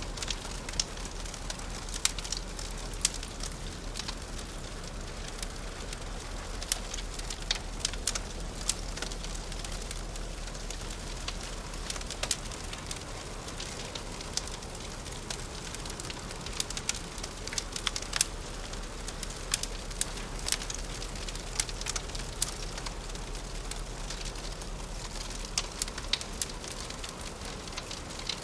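Wood fire crackling in a fireplace: a steady soft hiss broken by irregular sharp pops and snaps, several a second.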